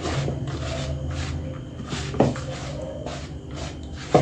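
Dry gram flour and spices being stirred in a bowl: a run of short scraping strokes, with a knock against the bowl about two seconds in and again near the end, over a steady low hum.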